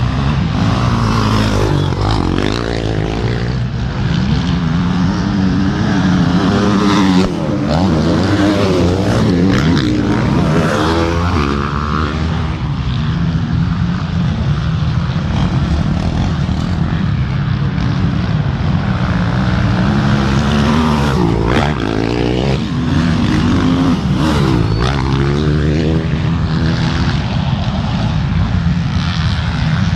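Several motorcycle engines running hard and revving, their pitches rising and falling and overlapping as the bikes race past one after another.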